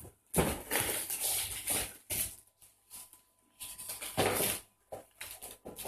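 A dog tearing and rustling at the wrapping paper of a present, in irregular bursts.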